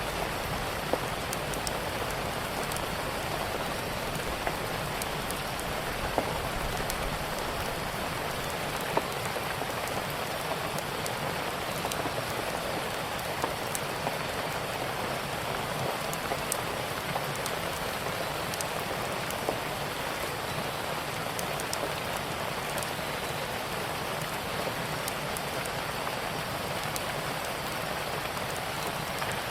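Steady rain falling, with scattered sharp pops of a crackling wood fire.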